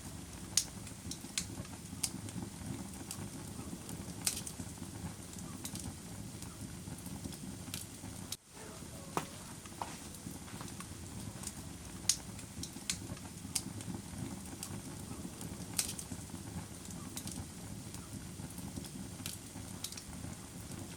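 Wood fire crackling in a fireplace: a steady low rush of burning with irregular sharp pops and snaps, a few of them much louder than the rest. The sound dips out for a moment a little before halfway.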